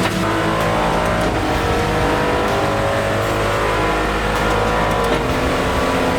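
Aston Martin Vantage GT4 race car's V8 under hard acceleration, heard from inside the cabin: the engine pitch climbs, drops with a gear change about a second in, climbs steadily again for several seconds, then falls near the end.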